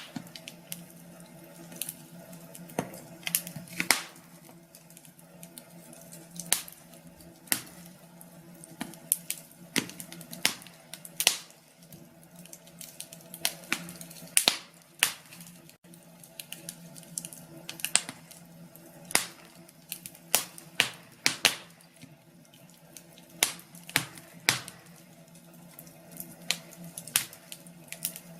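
Wood fire crackling, with irregular sharp pops, sometimes several a second, over a faint steady hum.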